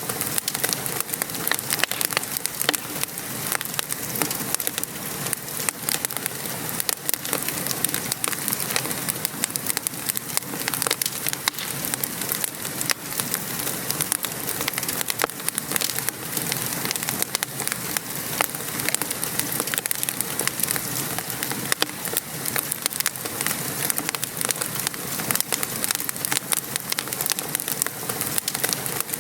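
Steady rain pattering on a surface mixed with a wood fire crackling, with many small sharp pops and ticks scattered throughout.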